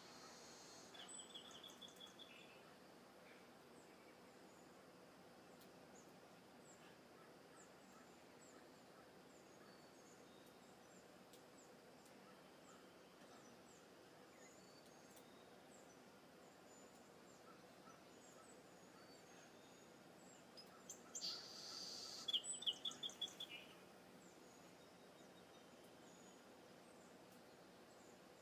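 Faint bird calls: scattered high chirps throughout, a short run of quick repeated notes about a second in, and a louder run of repeated notes with a brief rushing sound about three-quarters of the way through.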